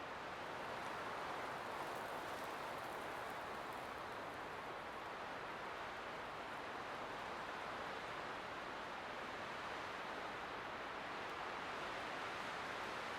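Light wind blowing steadily, a soft even rush with gentle slow swells and no gusts or breaks.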